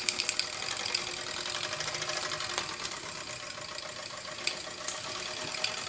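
Mamod TE1A model steam tractor's small single-cylinder oscillating steam engine running on live steam, with a rapid, steady chuffing and mechanical clatter.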